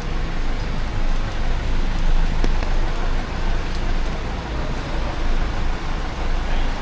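Steady rain with city street traffic: an even hiss over a low rumble, with scattered ticks of drops.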